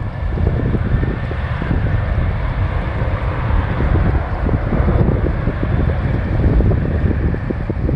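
Jet airliner's engines running at high power during a takeoff, a loud steady rumble with a faint high whine early on, mixed with wind buffeting the microphone.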